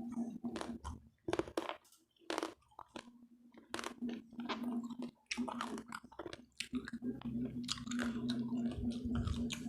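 A person chewing crunchy food close to the microphone: crisp fried pork belly (lechon kawali), with many sharp, irregular crunches and bites and softer wet chewing between them.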